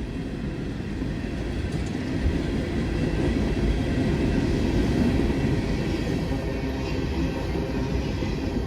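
Freight train of empty coal hopper cars rolling past, a steady rumble of wheels on rail that grows a little louder toward the middle.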